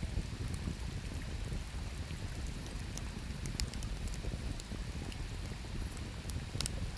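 Wood campfire crackling, with scattered sharp pops, over the steady low rush of a river.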